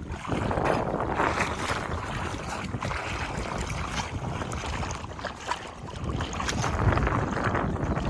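Wind buffeting the microphone in a low, uneven rumble, over the wash of water along a flooded shore.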